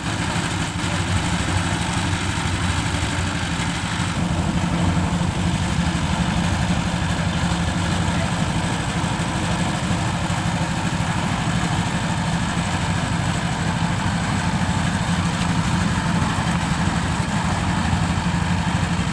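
An engine running steadily at an even idle, a constant low drone that does not rise or fall.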